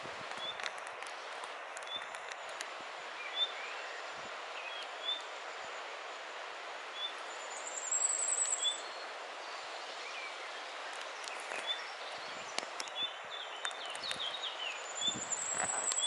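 Small birds singing and calling in dense foliage: a short high chirp repeated every second or two, other scattered chirps, and a brief high trill twice, about halfway through and near the end, over a steady background hiss.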